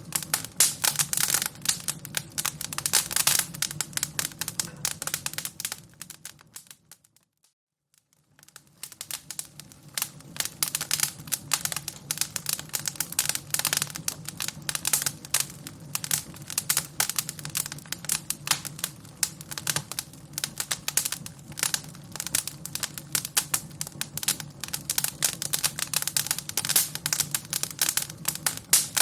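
Wood fire crackling: a dense, irregular stream of pops and snaps over a low steady rumble. About seven seconds in it fades to near silence for a couple of seconds, then the crackling comes back.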